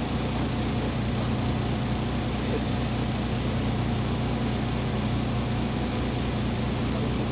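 Steady hum of a MAZ 203.065 city bus running, heard from inside the passenger cabin, with no change in pitch or level.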